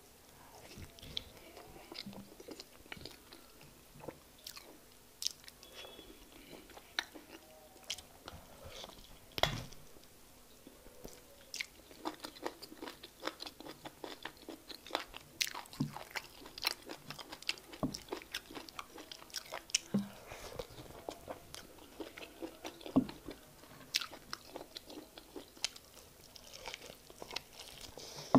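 Close-miked eating of fufu and egusi soup: wet chewing with many sharp, irregular mouth clicks and smacks.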